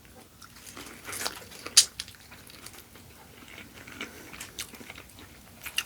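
Close-up eating sounds of a mouthful of Cajun corn being bitten and chewed: scattered wet clicks and smacks, with a louder crunch a little under two seconds in.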